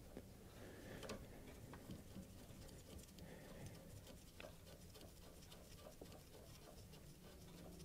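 Faint small clicks and ticks as a brake line union nut is threaded by hand into the ABS pump block.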